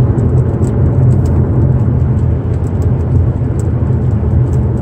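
Steady low rumble of a car driving on wet roads, heard from inside the cabin: road and tyre noise over the engine, with faint scattered ticks.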